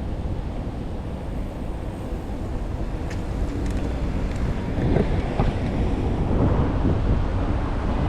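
Wind buffeting the microphone of a camera carried on a moving bicycle: a steady low rumble that turns rougher and louder about five seconds in.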